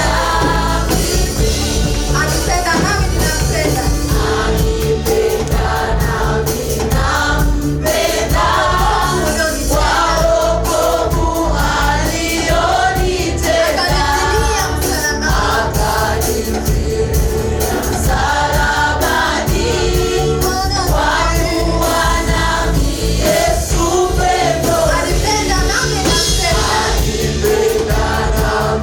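A choir singing gospel praise music with instrumental backing and a steady bass.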